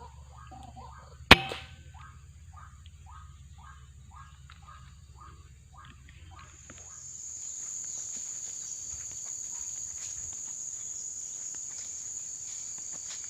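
White-breasted waterhens calling a quick repeated note, about two or three a second, broken about a second in by a single sharp air-rifle shot, the loudest sound. The calls stop a few seconds later, and a steady high cricket chirring sets in.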